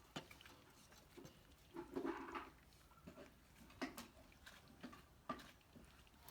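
Near silence, broken by a few faint, scattered clicks and knocks.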